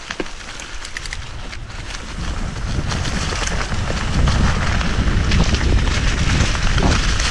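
Wind rushing over the microphone of a mountain bike rider moving along a dirt trail, with faint tyre and trail clicks, growing louder about two seconds in.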